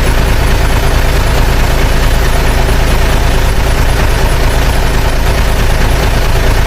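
Truck engine running steadily: a loud, even engine noise with a strong low hum.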